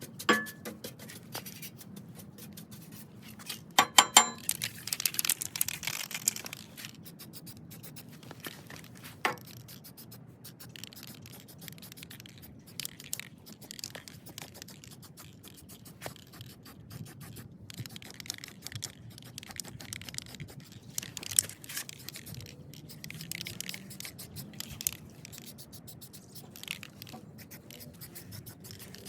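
Irregular scraping and clicking of hand work on the steel mower deck, with a sharp cluster of metallic clinks about four seconds in and a few short hissing stretches.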